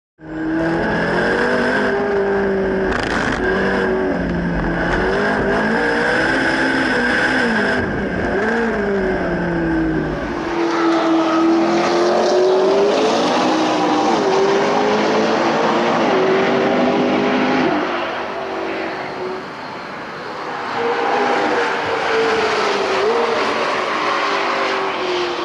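Supercar engine running at speed, its note rising and falling as the throttle and gears change, with a steady high whine for about the first ten seconds. About ten seconds in the deep bass drops away and the engine sound carries on with further rises and falls.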